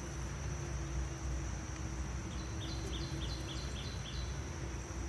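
Honeybees humming around an open hive over a low rumble, with a thin steady high insect trill behind. About halfway in, a bird gives a quick run of about seven chirps.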